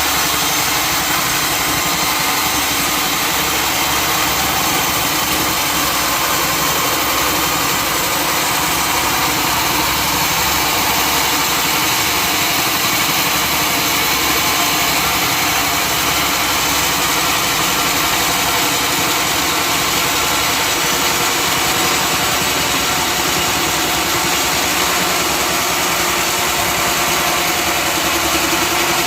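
Sawmill running steadily, its engine and saw making a loud, unbroken noise with no pauses or changes.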